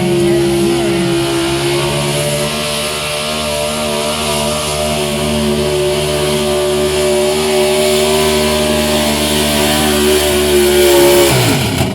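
Engine of a pulling vehicle run at high revs under heavy load as it drags the weight sled down the track, its pitch held steady and creeping slightly higher, then the revs fall away near the end as the driver lets off.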